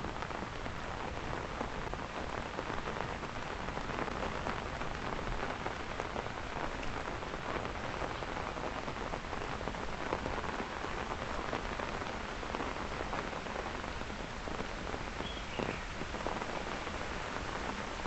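Heavy rain falling steadily during an amber rainstorm: a dense, even hiss with the ticks of individual nearby drops.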